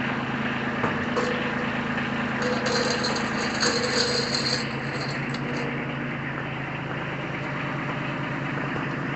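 Kubota B2320 compact tractor's three-cylinder diesel engine idling steadily. A high-pitched hiss joins for about two seconds, midway through.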